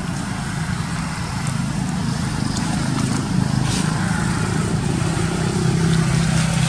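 A motor vehicle's engine running steadily with a low hum, a little louder toward the end.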